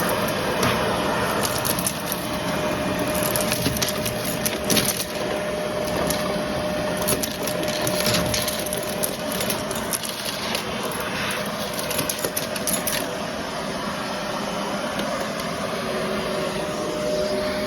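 Vacuum cleaner running with a steady whine while sucking up crunchy debris that crackles and rattles through it. The crackling is dense for most of the time and thins out near the end.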